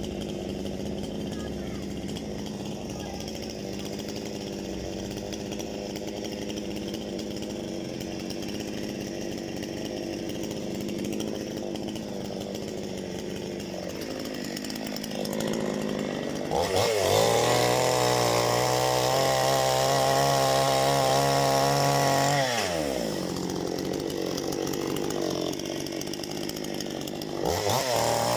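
Parma BP-058 two-stroke chainsaw idling, then revved sharply to high speed about two thirds of the way in and held there for about six seconds before dropping back to idle. It revs up again near the end.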